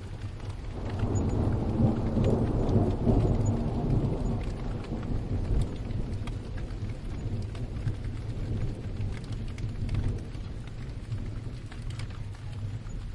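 Steady rain with a long rolling rumble of distant thunder that swells about a second in, is loudest over the next few seconds and then slowly dies away.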